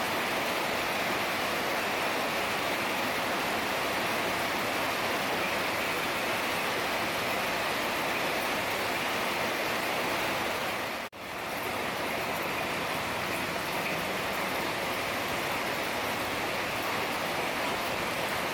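Heavy rain falling steadily in a dense, even hiss. About eleven seconds in it fades briefly to almost nothing and swells straight back.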